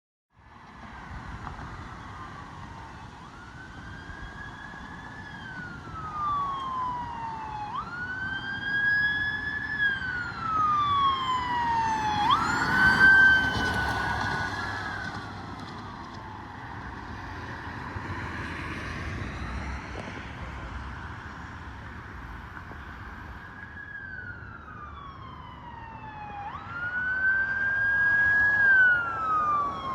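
Responding fire apparatus running its wail siren: a tone that climbs quickly and then falls slowly, over and over, about every four to five seconds. It is loudest a little before halfway, where the rumble of a passing vehicle joins it.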